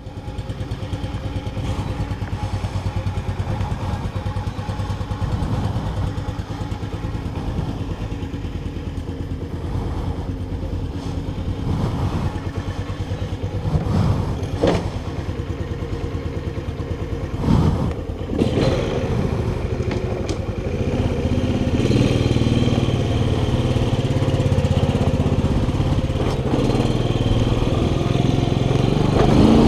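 Keller Crono 110 underbone motorcycle's small single-cylinder four-stroke engine idling, with a couple of sharp knocks near the middle. From about twenty seconds in the engine runs louder as the bike pulls away and rides off.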